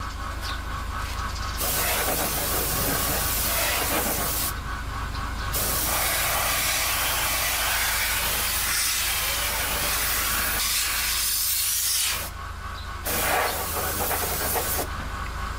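Loud steady hiss over a low hum, the hiss cutting out briefly about four times.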